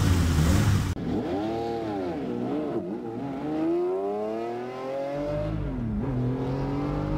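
Car engine accelerating, with a loud rushing noise in the first second. The engine note then climbs and falls back twice.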